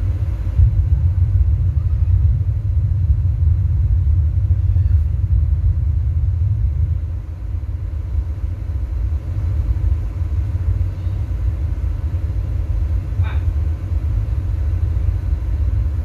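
A loud, steady deep rumble, with nearly all its energy in the bass.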